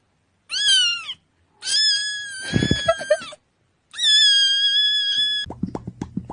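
Cat meowing three times, high-pitched: a short falling meow, then two longer held meows.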